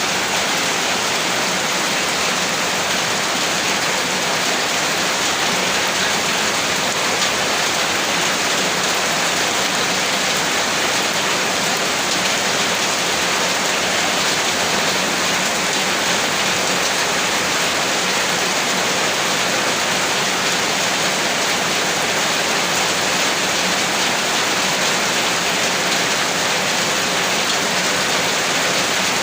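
Heavy rain falling, a steady, dense hiss of rain with no breaks or thunder.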